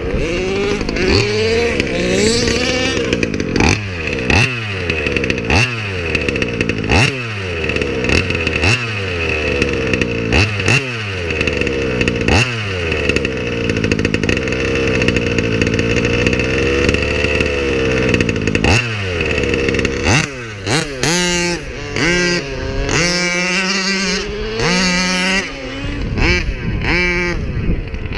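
38cc 30DN billet two-stroke engine of a King Motors Baja 5b RC car with an Olimat expansion-chamber pipe, revving up and falling back over and over, about once every second and a half. In the last several seconds the revs come in shorter, uneven blips between spells of lower running.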